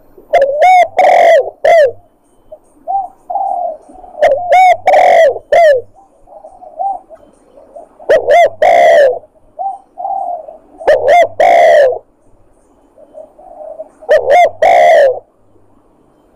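Spotted dove (tekukur) cooing loudly in repeated phrases, five in all, about one every three to four seconds. Each phrase is a couple of quick notes ending in a longer falling coo, with softer coos between the phrases. This is a dove lure call of the kind used to draw in wild doves for hunting.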